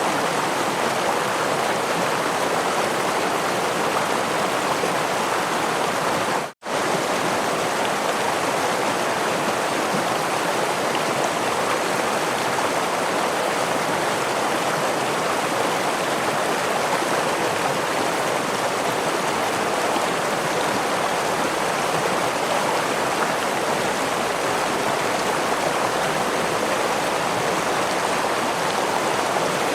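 Stream water rushing steadily over rocks, an even wash with no change in strength. It cuts out for a split second about six and a half seconds in, then carries on.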